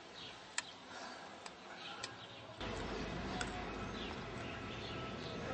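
Faint bird chirps, short falling notes repeated now and then, with a few sharp clicks. About halfway through, a steady background noise suddenly gets louder.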